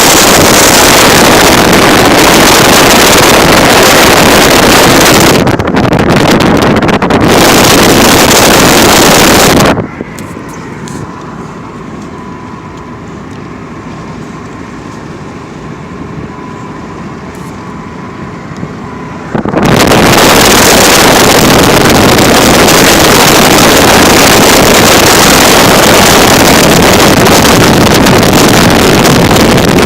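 Heavy wind buffeting the microphone, a loud, steady rush. It drops away for about ten seconds in the middle, leaving a quieter steady motor hum, then comes back just as loud.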